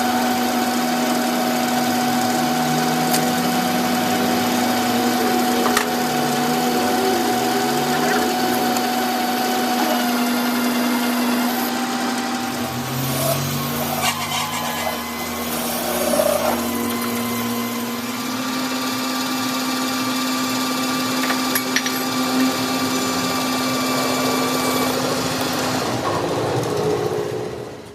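A workshop machine's motor running steadily with a constant hum, with some scraping and light clicks of work on metal; it winds down near the end.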